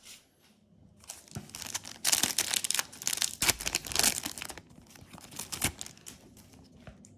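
Foil Yu-Gi-Oh booster pack wrapper being torn and crinkled by hand, a dry crackling that starts about a second in, is loudest in the middle and dies away near the end.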